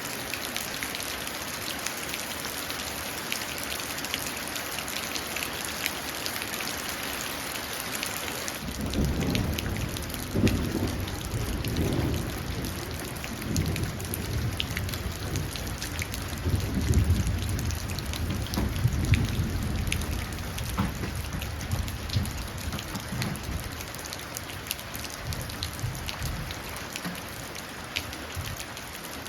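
Steady rain falling and splashing into a puddle. About a third of the way in, a long, low rumble of thunder rolls in, swelling in waves that are loudest past the middle, then dies away.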